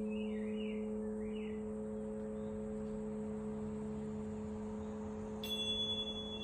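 Crystal singing bowl ringing with a steady, sustained low tone, while a bird chirps over it for the first second and a half. About five and a half seconds in, a higher-pitched ringing tone is struck and keeps sounding.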